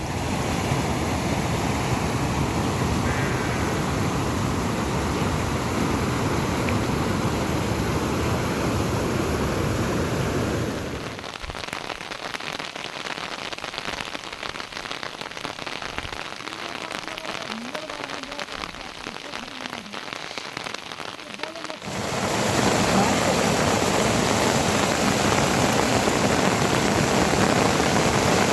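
Heavy rain falling, a dense steady hiss. It drops abruptly to a quieter patter about eleven seconds in and comes back just as abruptly, louder, about ten seconds later.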